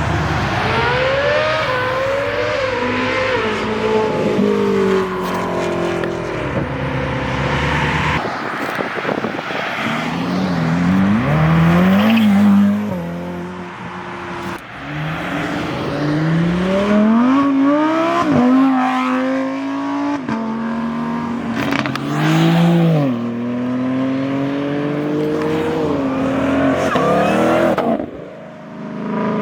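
High-performance car engines accelerating hard and revving. The pitch climbs and then drops sharply at each gear change, over and over, with brief lulls between pulls.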